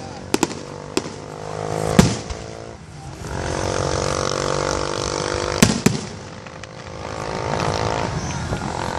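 Aerial fireworks bursting: several sharp bangs, the loudest about two seconds in and a close pair a little past the middle. Under them runs a steady pitched drone.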